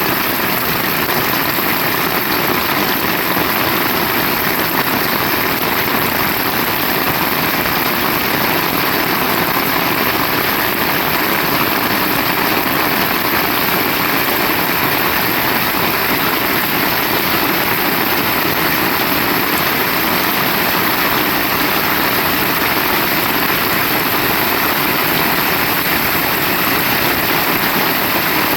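Heavy rain falling steadily, an even, unbroken wash of noise with no single drops or thunder standing out.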